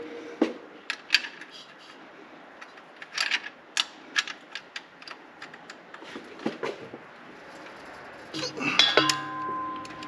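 A wrench clicking and clinking on an oil-pan drain plug as a tight plug is broken loose. The clicks come irregularly, with a louder metal clank about nine seconds in that rings on briefly.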